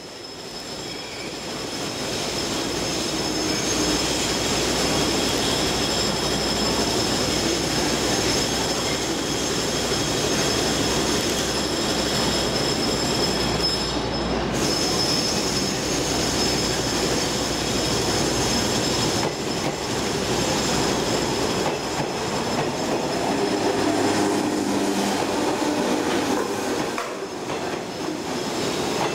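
JR Nara Line 103 series electric train running out of the station, its wheels rumbling and squealing with a steady high pitch. The sound swells over the first few seconds.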